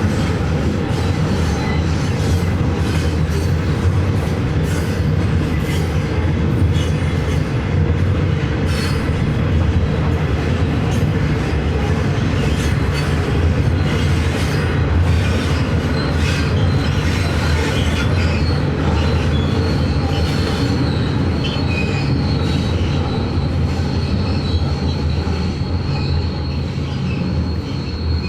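Loaded coal wagons of a heavy-haul coal train rolling past with a steady low rumble and wheels clicking over the rail joints. A high, steady wheel squeal comes in about two-thirds of the way through.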